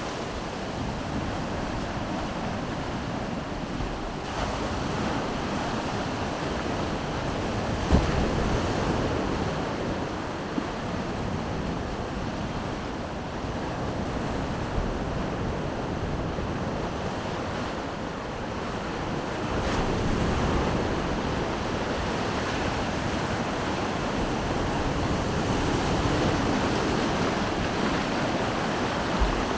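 Sea surf washing onto the beach in a continuous rush that swells and eases, with wind buffeting the microphone and a couple of brief low thumps from gusts.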